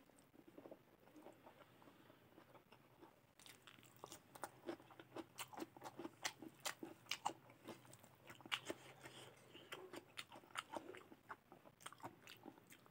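A person chewing a mouthful of food close to the microphone: soft chewing at first, then, from about three seconds in, crisp crunching and wet mouth clicks, several a second.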